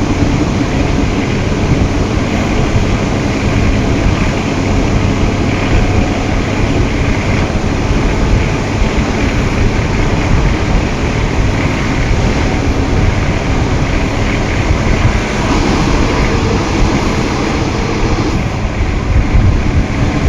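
Train running on the track: a steady, loud rumble and rush of noise that holds evenly throughout.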